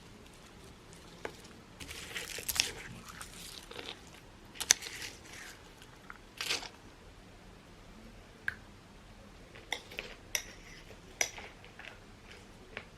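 Intermittent close-up rustling and crinkling, with a few light clicks and taps in the second half.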